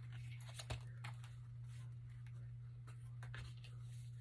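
Faint rustling of paper pages being leafed through, with a few small clicks, one sharper tick about three-quarters of a second in, over a steady low electrical hum.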